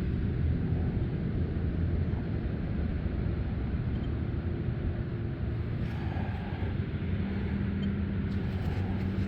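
Wind buffeting a phone's microphone: a steady low rumble with no let-up.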